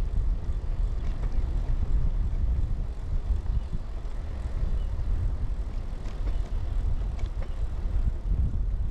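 Steady low rumble of wind buffeting a chest-mounted action camera and tyres rolling under a moving 2000 Kona Blast bicycle, with a few faint ticks and rattles from the bike.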